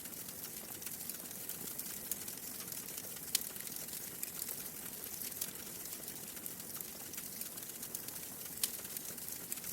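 Wood fire crackling steadily with a soft hiss and frequent small snaps, and two sharper pops, one about a third of the way in and one near the end.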